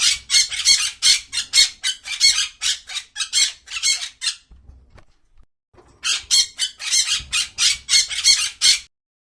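Parrot calls, a rapid run of short high-pitched squawks at about five a second. They break off for about a second and a half midway, resume, and stop shortly before the end.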